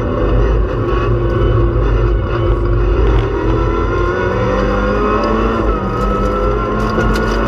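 In-cabin sound of a Peugeot 206 RC's four-cylinder rally engine pulling hard in second gear, the revs climbing steadily. The pitch drops back once about six seconds in as it shifts up, then climbs again, over heavy road and tyre rumble with scattered clicks.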